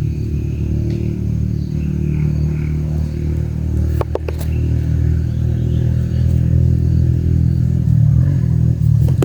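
A loud, steady low rumble, with a quick run of three sharp taps about four seconds in and two more near the end.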